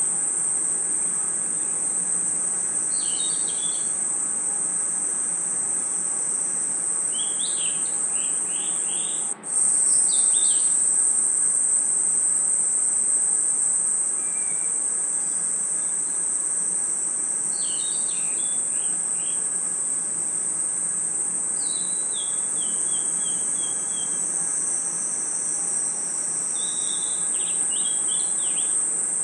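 Night insect chorus: a steady, high-pitched drone of crickets and other insects, with short clusters of chirps every few seconds. The drone cuts out for an instant about nine seconds in.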